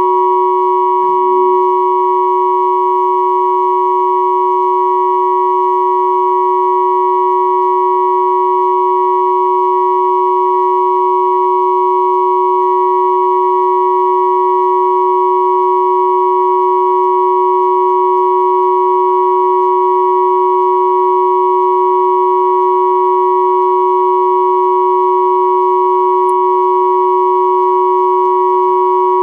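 Combined pure sine tones at 369 Hz, 963 Hz and 1111 Hz sounding together as one steady, unchanging electronic drone, with faint higher overtones.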